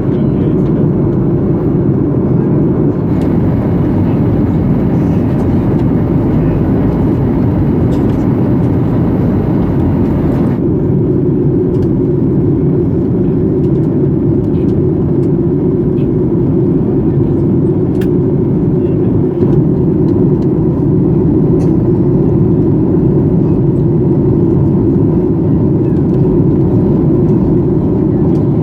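Steady cabin drone of a Boeing 737-800 in flight, the CFM56 jet engines and the airflow over the fuselage heard from inside the passenger cabin. A faint high whine stops about ten seconds in.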